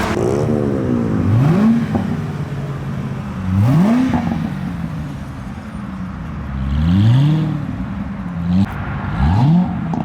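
Car engine being revved, about four rev blips a couple of seconds apart, each climbing sharply in pitch and then sinking back.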